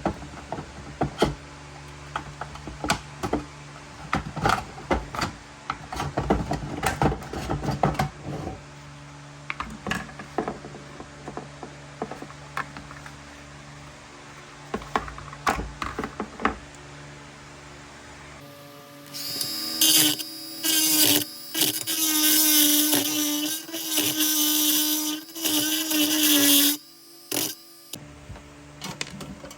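Workshop handling sounds, scattered clicks and knocks over a steady low hum, then a small power tool that runs in bursts of a second or more, stopping and starting several times in the last third.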